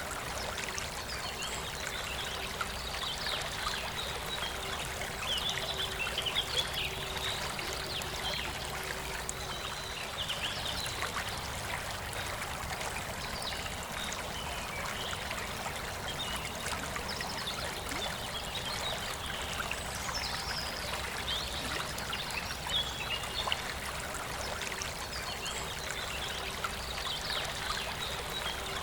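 Forest river running steadily, with birds chirping on and off above the water.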